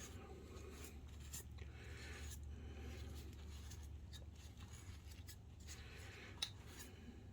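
Soft, irregular rubbing and scratching strokes of dirt being wiped off a projector cooling fan, over a steady low hum.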